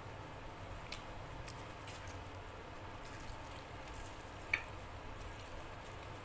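Faint eating sounds of chicken curry and luchi eaten by hand: soft wet chewing and mouth clicks, with one sharper click about four and a half seconds in.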